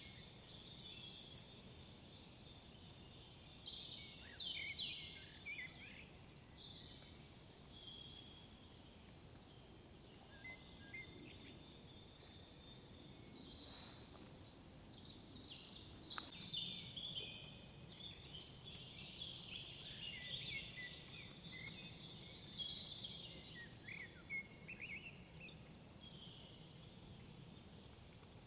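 Several songbirds singing and calling, with many short high chirps and quick rapid trills, over a faint steady background hush.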